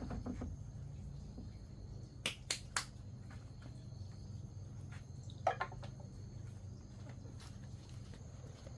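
Three quick sharp clicks or taps in a row, then a single short knock a few seconds later, over a steady low hum.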